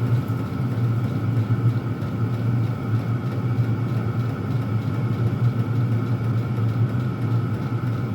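Several Chinese diesel air heaters running together: a steady low combustion hum with the even whine of their blower fans above it.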